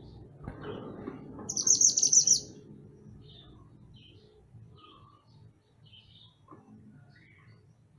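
A mantenan gunung bird sings a loud, fast, high-pitched trill lasting about a second, starting about a second and a half in. Faint, short chirps follow.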